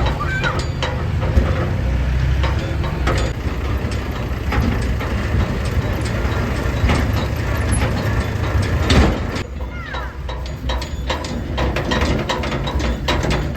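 Mahindra Arjun Novo tractor's diesel engine running steadily with the Gahir Nippy 45 mini combine harvester attachment working, its mechanism clattering and rattling on top of the engine. The sound eases off a little about nine seconds in.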